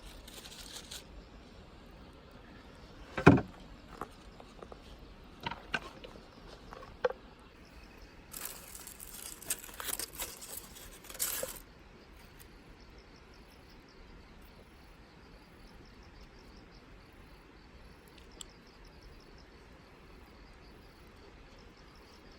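One sharp knock, then a few lighter clicks, then a few seconds of rustling handling noise. After that, only faint insects chirping steadily.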